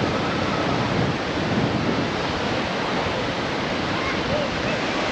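Ocean surf washing steadily, a continuous rushing noise with some wind on the microphone.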